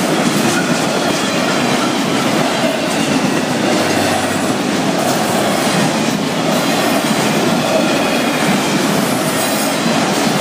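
Freight train of tall autorack cars rolling past at speed, a loud, steady noise of steel wheels running on the rails.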